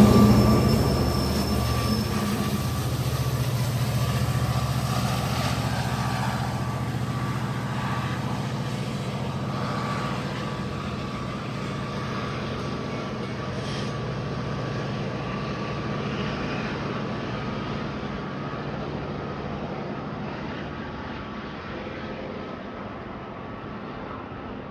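A diesel-hauled commuter train moving away, its low engine drone and a steady thin whine fading steadily.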